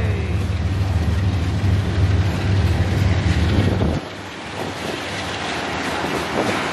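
GE ES44AC diesel locomotive running as a mid-train DPU passes, a steady low hum that drops away suddenly about four seconds in. Then covered hopper cars rolling by, wheels on the rails with light clatter and wind noise.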